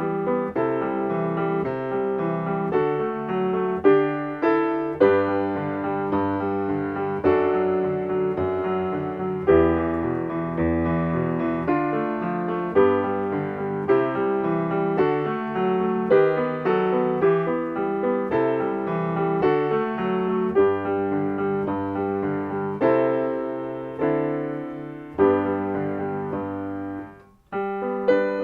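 Solo piano playing a choral accompaniment without the voice parts, steady chords under a melody at a moderate tempo of about 96 beats a minute. Shortly before the end the playing thins out and stops for a brief moment, then starts again.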